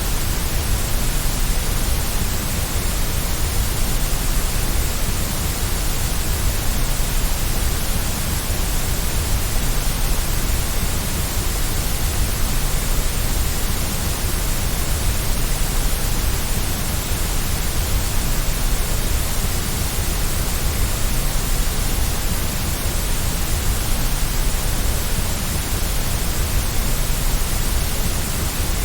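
Steady white noise: an even, unchanging hiss with a heavy low rumble underneath.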